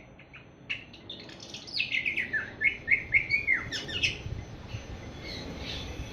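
Young awar-awar bird, about seven months old, twittering a fast run of short chirps and downward-sliding whistled notes: the early 'ngriwik' practice twitter of a young bird starting to sing. The notes are loudest in the middle and thin out to fainter calls near the end.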